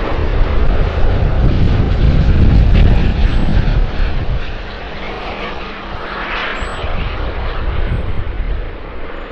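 Jet engines of a heavy military transport jet passing close on its landing, a deep rumble that is loudest about two to three seconds in and then fades, with a brief hissing swell a little past the middle.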